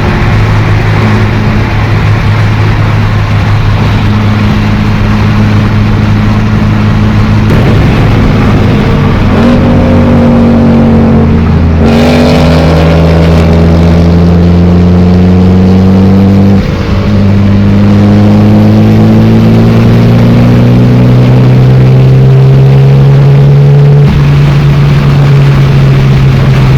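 A car engine pulling hard under acceleration: its pitch climbs slowly through each gear and breaks at a few gear changes. It sounds like a flat-out run.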